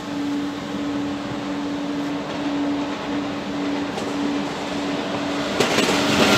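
TGV high-speed electric train approaching and passing through a station: a steady hum with a constant tone, then a sudden loud rush of wheel and air noise as the power car reaches the microphone near the end.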